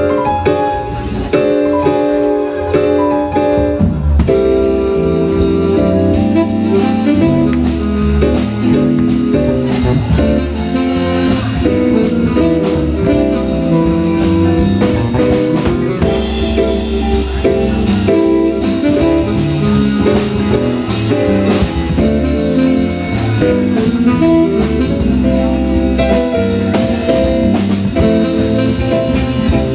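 Jazz played by a band with a drum kit, at a steady loud level; the drums come in about four seconds in and keep a regular beat under held melody notes.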